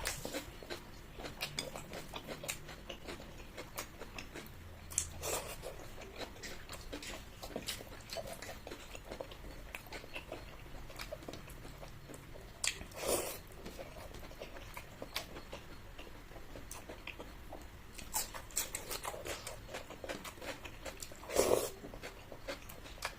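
Close-up eating sounds: a person chewing and biting food, with many small wet mouth clicks and three louder short bursts spread through the stretch.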